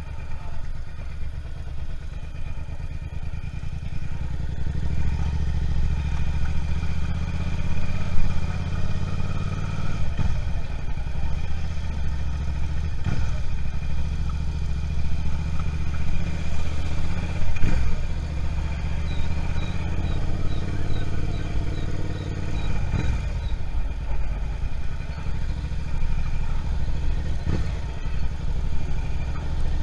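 Suzuki SV650's V-twin engine running while the motorcycle is ridden, its note swelling and easing with the throttle, with several brief sharp jumps in the engine sound along the way.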